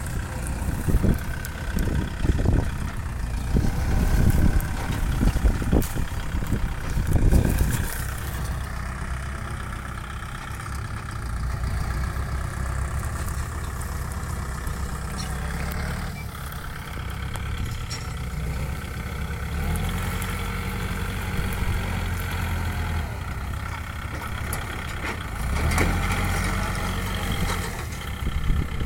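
Kubota tractor's diesel engine running steadily, with an uneven low rumble over roughly the first eight seconds.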